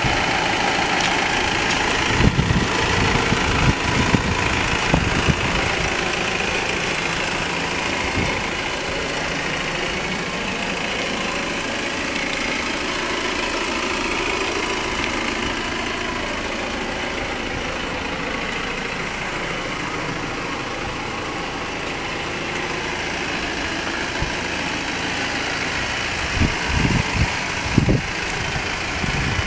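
Volvo XC60 2.0 D4 diesel engine idling steadily, with a few low thumps near the start and again near the end.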